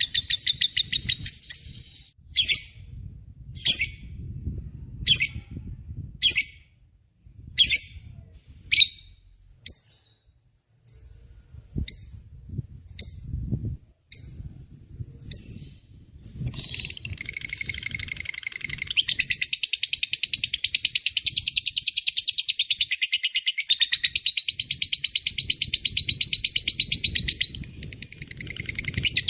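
Lovebird chattering: a fast high trill at first, then a dozen or so single short calls spaced about a second apart, then a long unbroken rapid chattering trill from about halfway in, the lovebird's long 'ngekek' song.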